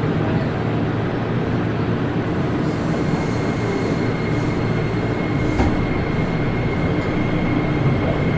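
Running noise inside a Toei Oedo Line 12-600 series linear-motor subway car in the tunnel: a steady rumble of wheels and motor. A thin high whine comes in about three seconds in, and a single clack sounds about halfway through.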